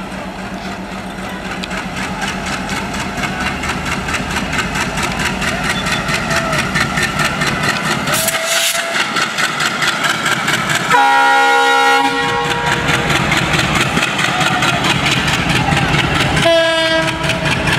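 Diesel locomotive hauling a passenger train past: engine rumble and wheels clacking over the rail joints, growing louder as it approaches. A multi-tone train horn sounds for about a second midway, with a shorter blast near the end.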